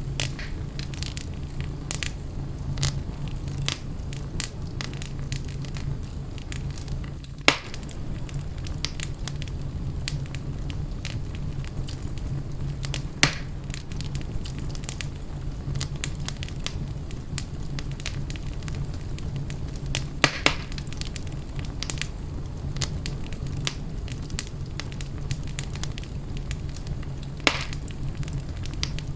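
Wood fire in a fireplace crackling steadily over a low rumble, with a few louder sharp pops scattered through, two of them in quick succession about two-thirds of the way in.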